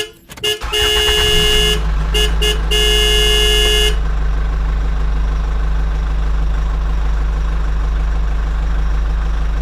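A vehicle horn sounds in four blasts: a long one, two short ones, then another long one. It is followed by a steady low engine hum.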